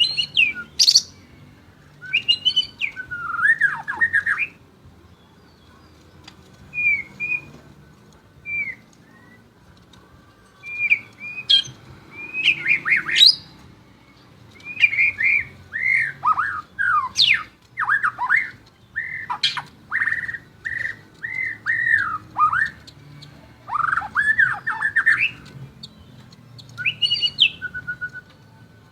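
White-rumped shama (murai batu) singing: bursts of quick whistled notes that slide up and down, mixed with harsher rasping notes, with short pauses between phrases.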